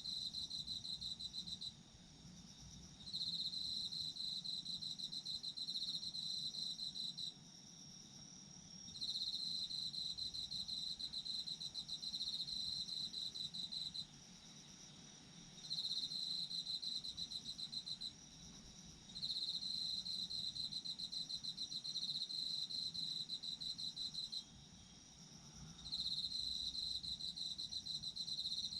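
Autumn insects, crickets, singing: a loud, rapidly pulsed high trill comes in bouts of a few seconds with short pauses between them, over a steadier, fainter high trill from other insects.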